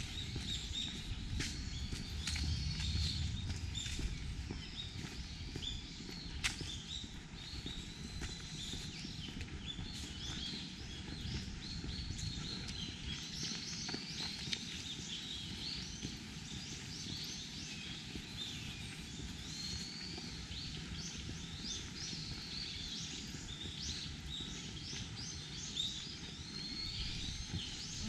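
Wild songbirds chirping and twittering, many short calls overlapping without a break. A low rumble sits under them for the first few seconds, and a handful of sharp clicks fall in the first half.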